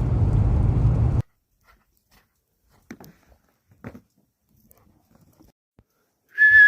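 Low rumbling noise that cuts off abruptly about a second in, then near silence with two faint clicks, and near the end a short whistled tone held steady and rising at its end.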